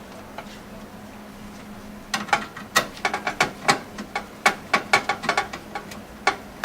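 Screwdriver driving the screws that hold a motherboard to the case standoffs: a run of sharp metal clicks, several a second, starting about two seconds in.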